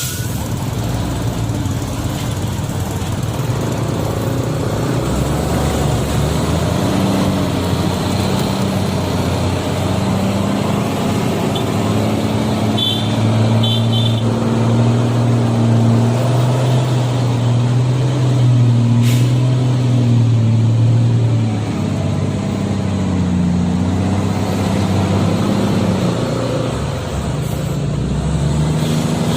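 Truck's diesel engine running under load. Its note rises about six seconds in, holds steady, then drops about twenty-one seconds in and wavers after that.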